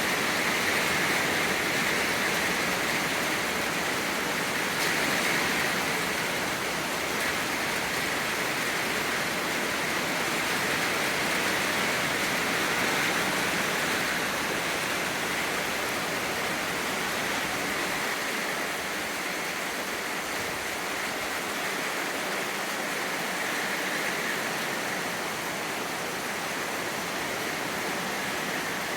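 Steady rain falling, heard as an even hiss with no single drops or thunder standing out.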